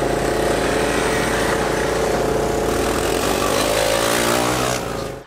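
Small engines of Honda ATC three-wheelers running at a steady speed as they ride along. The sound cuts off suddenly near the end.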